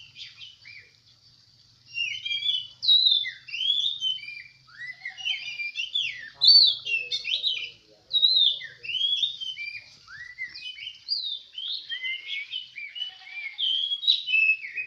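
Oriental magpie-robins (kacer) singing: a rapid, unbroken stream of varied, sliding whistled phrases, pausing briefly at the start and picking up again about two seconds in.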